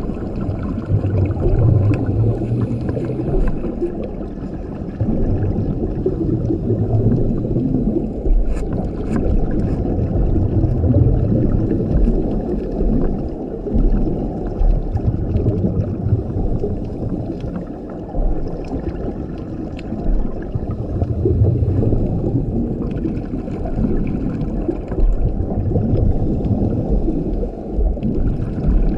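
Scuba diver breathing through a regulator underwater: exhaled bubbles gurgle and rumble low, swelling every few seconds with each breath, with faint scattered clicks above.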